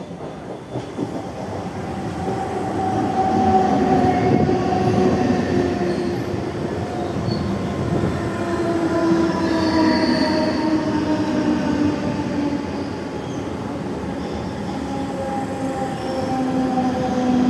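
Mumbai suburban EMU train running past on the station tracks: a rumble that builds over the first few seconds, with several whining tones that fall slowly in pitch throughout.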